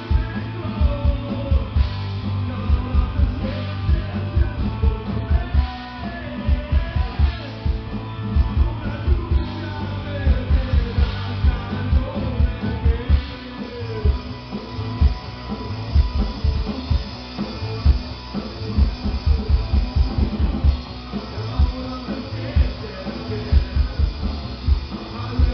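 Live rock band playing a heavy song: electric guitar, bass and drum kit, with a fast, pounding kick drum.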